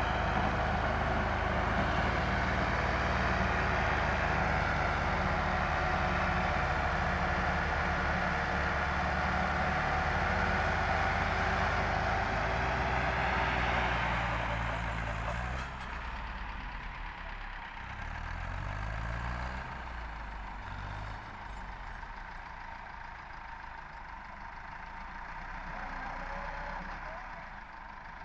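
Truck engine running loudly for about fourteen seconds, then quieter, with a few rises and falls in engine speed partway through.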